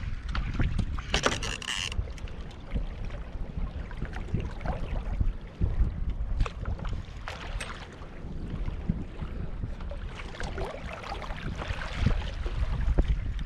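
Water sloshing and splashing around a kayak hull, with small knocks and a short louder rush about a second in, over wind rumbling on the microphone.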